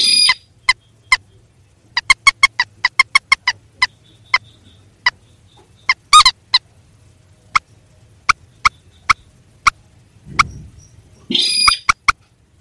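Recorded calls of rails known locally as mandar and sintar, played as a bird lure: short, sharp notes in irregular series, with a quick run of about eight notes around two to three seconds in. A harsher, longer honking call comes near the end.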